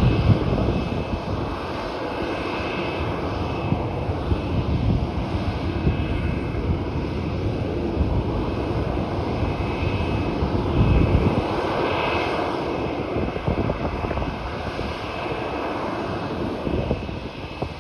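Jet airliner's engines running, a steady rumble with a faint high whine drifting in and out.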